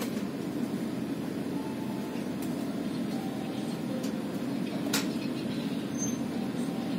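Steady low rumble inside the executive passenger coach of a running train, with a single sharp click about five seconds in.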